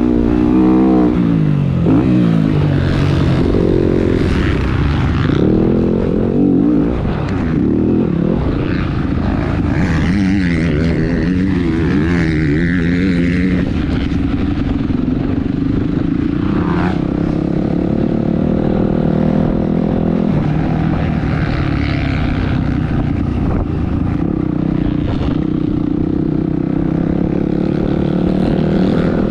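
Motocross dirt bike engine being ridden hard, its pitch rising and falling repeatedly with throttle and gear changes for about the first dozen seconds, then holding a steadier pitch.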